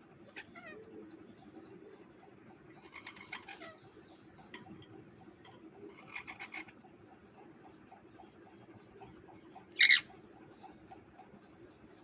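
Parrot calling in scattered short bursts of chirps and squawks, with one loud, sharp screech near the end.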